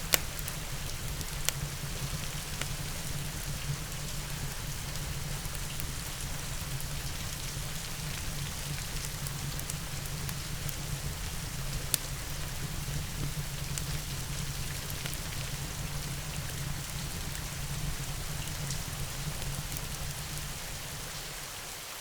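Steady rain with a few sharp pops and crackles of a log fire, growing a little quieter near the end.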